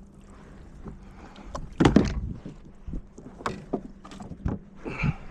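A series of knocks and bumps on a kayak as gear and a catch are handled aboard, the loudest about two seconds in, followed by several smaller ones.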